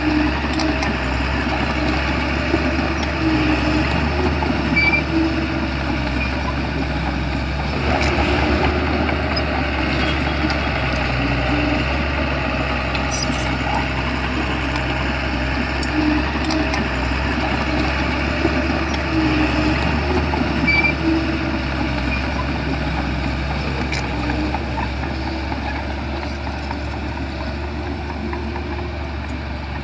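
Shantui bulldozer's diesel engine running steadily under work, with a few short metallic clanks from the machine.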